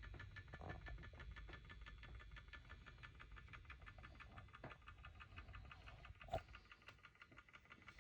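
Bone grinder mill running, a faint fast rattle of even clicks, about eight a second, with one sharper knock about six seconds in.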